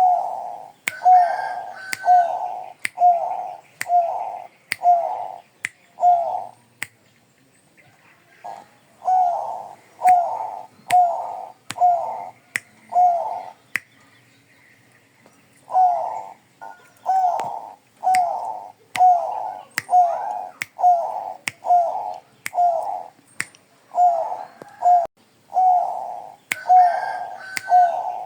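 A Bangkok zebra dove (perkutut) cooing: fast runs of short, evenly spaced coo notes in four phrases separated by pauses of one to two seconds. Sharp thin clicks sound between the notes.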